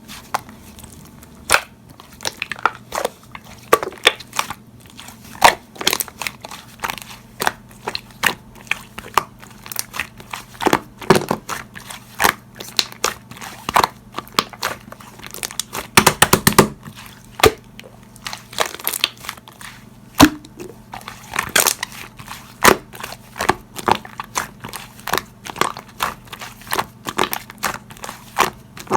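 Slime being squeezed, folded and pressed by hand, making irregular sticky pops and crackles, about two or three a second and sometimes in quick clusters. A faint steady low hum sits underneath.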